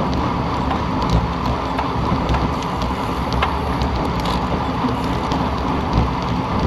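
Steady wind and road noise of a bicycle ride, a low rumble with hiss over it, broken by scattered small clicks.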